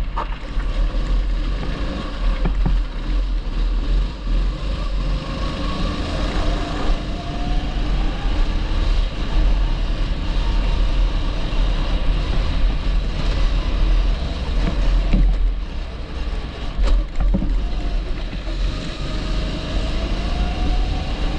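Kart's 270 cc four-stroke engine running on track, its pitch climbing slowly along the straights and dropping off into the corners, with heavy wind buffeting on the microphone.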